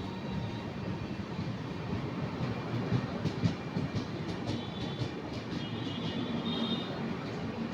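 Indian Railways train passing a level crossing: a steady rumble of wheels on the rails, with a few sharp clicks about three to four seconds in and a faint high whine in the second half.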